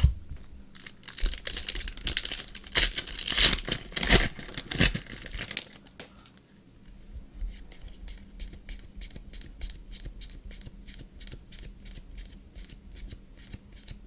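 A trading card pack's wrapper torn open and crinkled for several seconds, then a quick run of light ticks as the cards are flicked through one by one.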